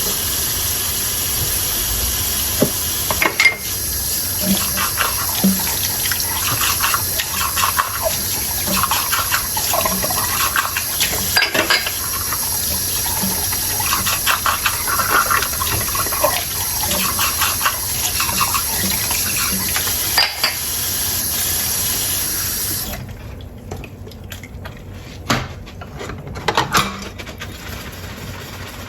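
Kitchen tap running into a sink while dishes are rinsed, with light clinks of crockery against each other. The water is shut off about three-quarters of the way through, leaving a few quieter knocks of dishes being handled.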